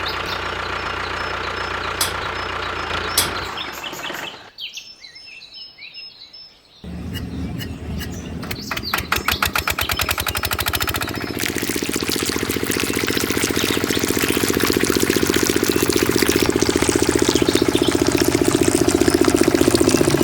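Small model diesel engine driving a water pump: it runs steadily, then stops about three and a half seconds in. A few bird chirps are heard in the short lull. About seven seconds in the engine starts again with a quickening string of firing beats, then settles into steady running that grows slowly louder.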